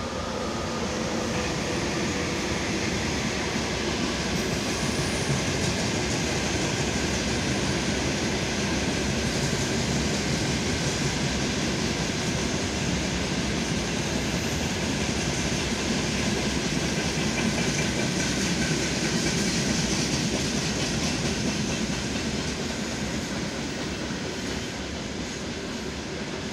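Wagons of a freight train rolling past on the rails: a steady noise of wheels on track that holds loud and even, easing a little near the end.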